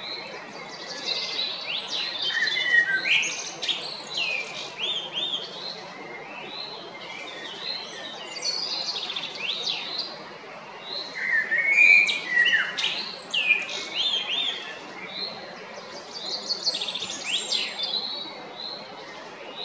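Male common blackbird singing: four phrases a few seconds apart, each a run of whistled notes and quick high twittering.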